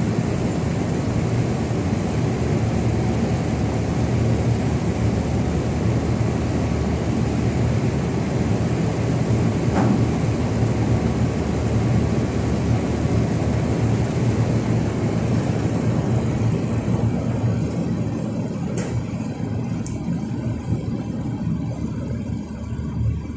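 An engine running steadily at a constant speed, its level dropping off over the last few seconds.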